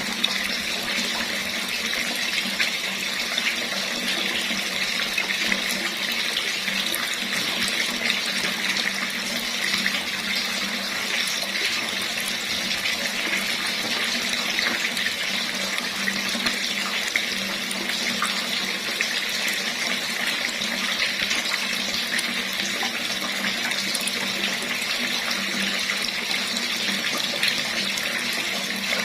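Water running steadily from a tap, an even splashing rush with no change.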